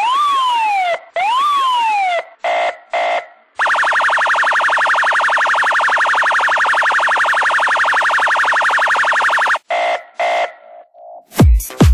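Electronic siren and alarm effects: two rising-and-falling siren wails, a few short beeps, then a harsh buzzing alarm held for about six seconds. More beeps follow, and deep bass kicks come in near the end.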